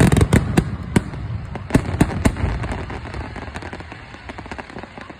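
Fireworks going off: a rapid run of sharp bangs and crackles that thins out after about two seconds and fades into a dwindling crackle.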